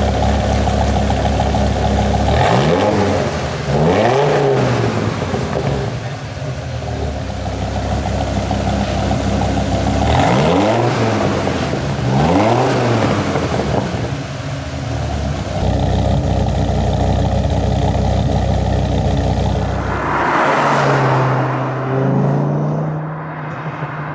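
2000 Dodge Viper's 8.0-litre V10 idling through a muffler-delete exhaust, with two quick revs that rise and fall about two seconds in and another two about ten seconds in. About twenty seconds in, the deep idle drops away, leaving a lighter, higher hum.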